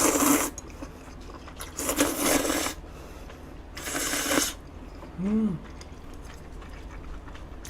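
Three crunchy chews of crisp fried battered squid, about two seconds apart, followed about five seconds in by a short hummed "mm".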